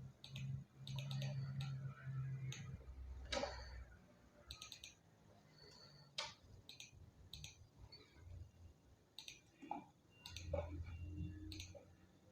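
Faint, irregular clicks of a computer mouse and keyboard, single clicks spread out with pauses between them, over a low hum at times.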